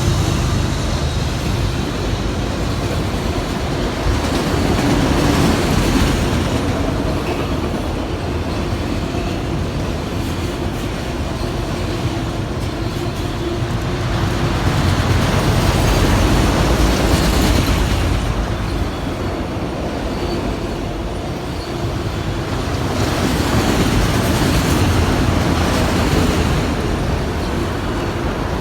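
Train cars rolling past on the rails: a steady loud rumble of wheels on track that swells and eases every several seconds.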